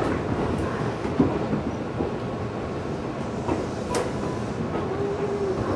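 Running noise of an electric local train heard inside the passenger car as it pulls away from the station, a steady rumble with a few sharp clicks.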